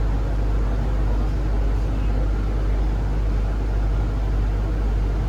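Steady low drone inside a Zhongtong hybrid range-extender city bus, the running noise of its drivetrain and body, with no change in pitch or level.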